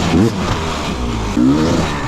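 Dirt bike engine revving, its pitch rising and falling with the throttle, climbing sharply near the start and again about one and a half seconds in.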